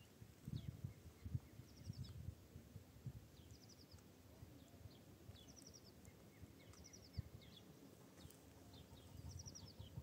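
Small wild birds calling: a quick high trill of about five notes repeats every two to three seconds, with scattered short chirps between. Faint low thumps and rumble sit under the calls.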